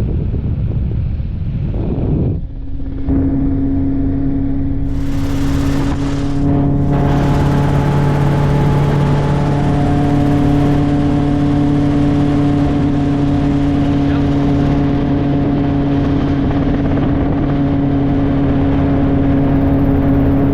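Helicopter in flight, heard from inside the cabin: a steady engine-and-rotor drone with a strong low hum. About two seconds in, a noisy rumble gives way abruptly to this drone.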